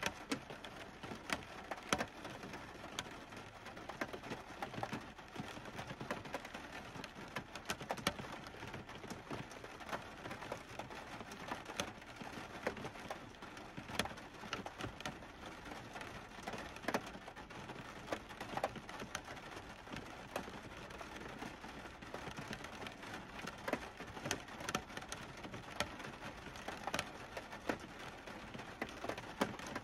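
Rain falling on a Chevy Tahoe's roof and sunroof glass, heard from inside the cabin: a steady hiss with many separate drops tapping sharply and irregularly.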